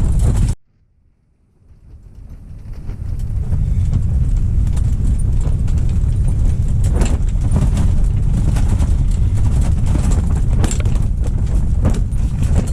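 Strong wind buffeting the microphone, a loud steady low rumble with scattered knocks and clatter. It cuts out abruptly about half a second in and swells back over the next couple of seconds.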